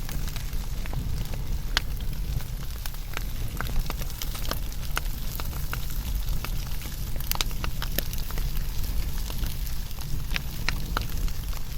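Wood fire burning, with irregular sharp crackles and pops over a steady low rumble and hiss.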